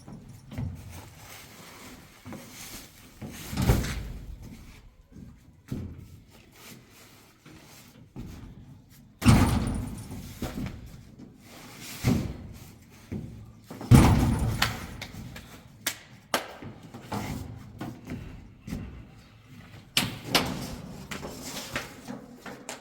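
Irregular knocks and thumps, a few seconds apart, the loudest about nine and fourteen seconds in.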